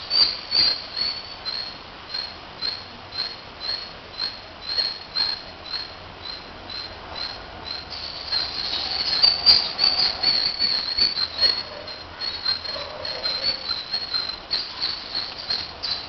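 Tailorbird calling a long series of short, high chirps, about two to three a second, with a louder, busier stretch of chirping in the middle.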